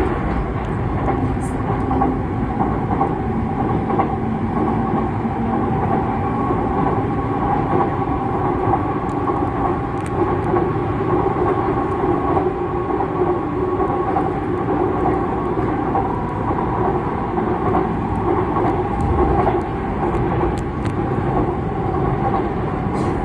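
Seoul Metro Line 2 subway train running steadily over a railway bridge, heard from inside the car: a continuous rumble of wheels on track with a steady motor whine.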